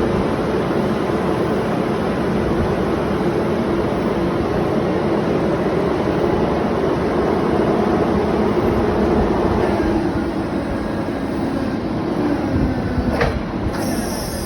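Cat GP18N5 forklift's engine running steadily, with a short clank about 13 seconds in.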